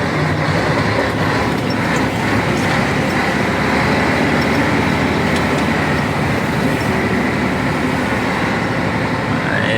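Scania 113 truck's six-cylinder diesel engine running steadily under load while the truck drives through swampy ground.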